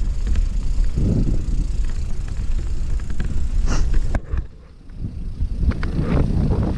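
Mountain bike rolling over a dirt trail: a steady low rumble of tyres and wind on the microphone, with scattered sharp knocks and rattles from the bike over roots. The rumble drops away briefly about four and a half seconds in, then picks up again.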